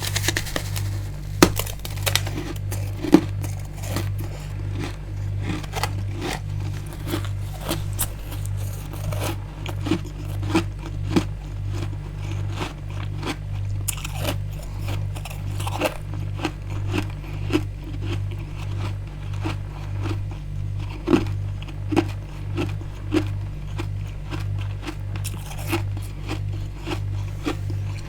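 Freezer frost and ice being scraped and crunched, a dense run of crisp irregular crackles with a few louder snaps. Underneath is a low, evenly pulsing hum.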